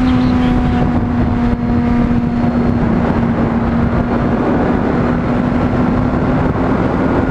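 Honda CBR600RR sport bike's inline-four engine running at a steady cruising speed, its note easing slightly at the start and then holding, under heavy wind rush on the microphone.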